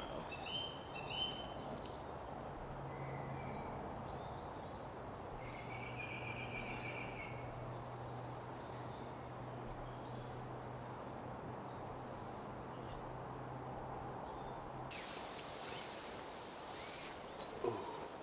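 Birds chirping, with a short trill about six seconds in, over a steady background hiss and a low steady hum that stops about fifteen seconds in.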